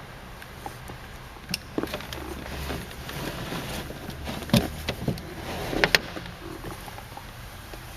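Car door window being wound by hand with its crank: rubbing and scraping of the glass in its channel, with clicks and two sharper knocks around four and a half and six seconds in.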